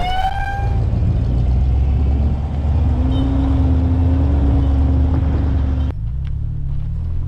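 Off-road truck engine running steadily under load as it crawls a rocky trail, a low rumble with a faint steady whine, after a short cheer at the start. The sound changes abruptly about six seconds in.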